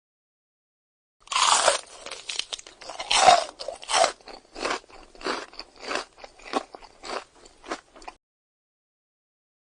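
Crunchy chewing sound effect: a run of about a dozen crisp crunches, roughly two a second, louder in the first few and weaker toward the end, starting about a second in and stopping suddenly.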